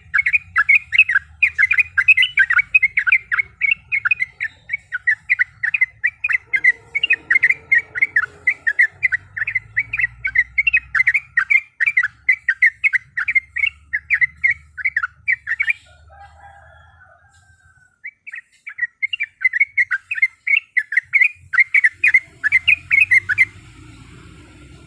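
Sooty-headed bulbul (trucuk) giving a long rolling chatter, a rapid run of short repeated notes. It breaks off for about two seconds past the middle, then resumes and stops near the end.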